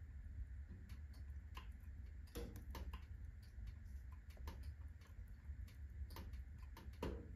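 Firewood crackling in an open fireplace burning at full blaze: irregular sharp pops and snaps, with a few louder ones about two and a half seconds in and just before the end, over a low steady hum.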